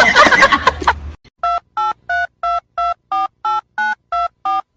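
Telephone keypad tones: about ten short two-tone beeps, about three a second, as a number is dialled. Before them, in the first second, there is a loud busy sound.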